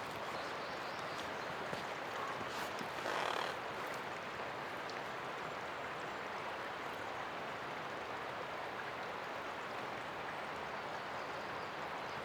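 Mountain river rushing steadily, with a short louder swell about three seconds in and a few faint clicks.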